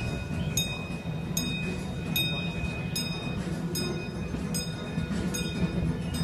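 Steam train's passenger cars rolling along the track with a steady low rumble, and a bell ringing with evenly spaced strikes a little more than once a second.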